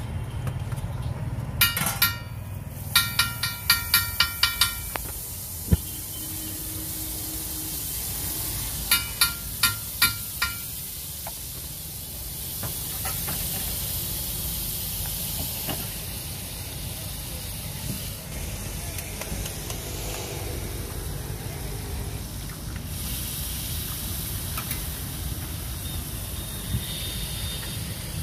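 Butter and oil sizzling on a large flat iron griddle (tawa), a steady hiss under which an egg is then frying. Two quick runs of ringing metal taps come near the start and about nine seconds in.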